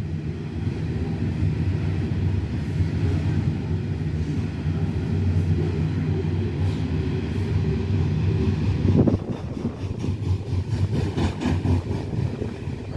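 Loaded coal train wagons rolling past with a steady low rumble. From about nine seconds in, the wheels clack over the rail joints.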